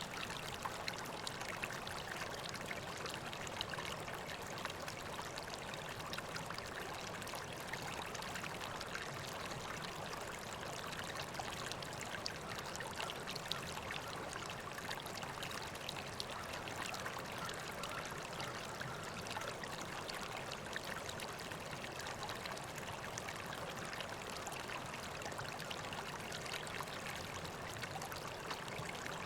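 River water flowing and babbling steadily, a constant rushing with fine splashy crackle.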